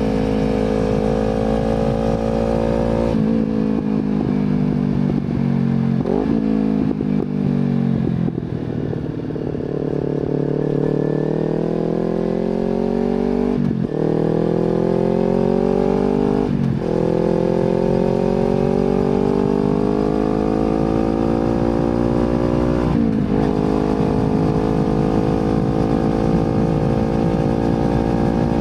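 Kawasaki Z250 running through an aftermarket slip-on exhaust while being ridden. The engine note falls off as the bike slows, then climbs under acceleration, with short dips at three gear changes about 14, 17 and 23 seconds in.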